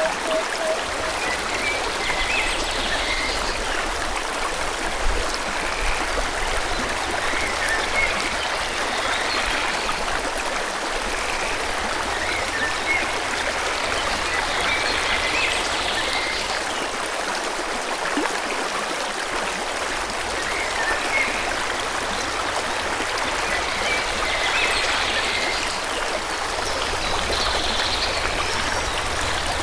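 Forest river flowing in a steady rush of water, with small birds chirping now and then over it.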